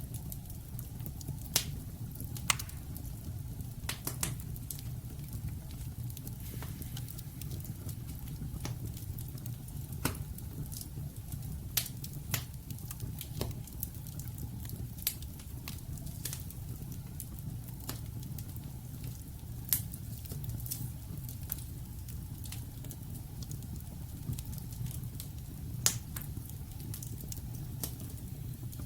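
Wood logs burning in a fireplace: a steady low rumble of flame with sharp, irregular crackles and pops, a few louder snaps scattered through.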